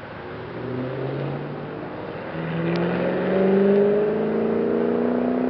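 Ford Mustang Shelby GT500 convertible's supercharged V8 accelerating, its engine note climbing steadily in pitch, with a short break about two seconds in and then a louder, higher climb.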